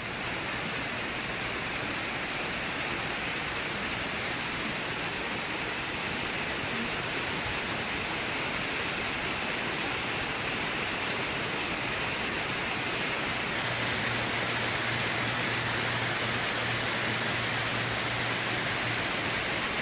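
Steady rushing hiss, even and unbroken, with a faint low hum that comes in about two-thirds of the way through and fades near the end.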